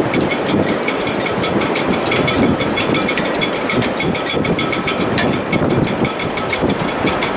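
Sailboat shrouds and rigging in heavy weather: a loud steady wind noise with a fast, even rattle of ticks running through it.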